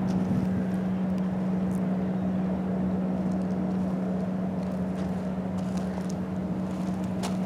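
Small camera drone's propeller motors humming steadily in flight, holding one even pitch.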